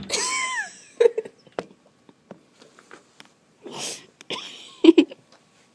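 Pet birds calling: a short arching whistled call at the start, then scattered clicks and two harsh, hissy squawks about four seconds in.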